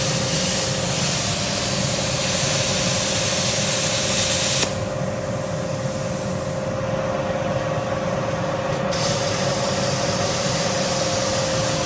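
CNC plasma cutter running, a loud steady hiss of the cutting arc and air over a steady hum. The hiss cuts off abruptly a little under five seconds in and starts again about four seconds later, as the torch stops and restarts between cuts.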